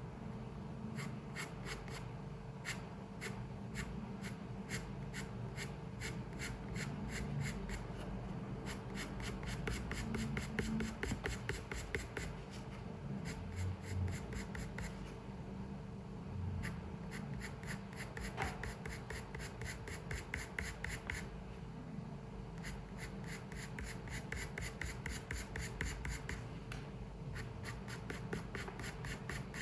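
Pencil scratching on paper in quick, short, repeated strokes, with a few brief pauses. A faint steady hum lies underneath.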